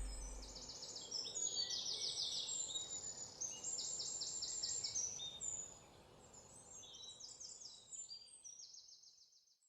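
Faint birdsong: several birds giving fast high trills of repeated chirps that overlap one another. It grows quieter after about six seconds and fades out near the end.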